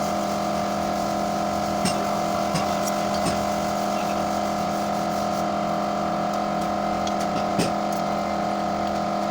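A motor running steadily at one constant pitch, with a few faint clicks over it.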